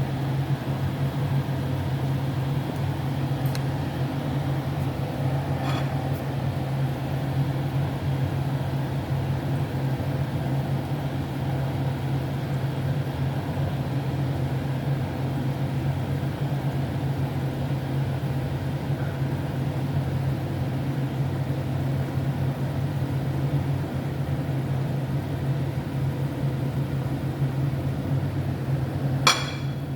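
Steady low rumble and hiss from a pot of chicken adobo simmering on the stove. Two faint clicks come early, and a sharp click or knock comes near the end.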